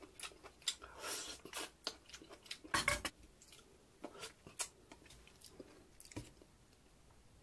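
Close-up eating sounds of a person biting meat off a pork neck bone and chewing: a run of short mouth clicks and bites, loudest about three seconds in, thinning to a few faint clicks in the last couple of seconds.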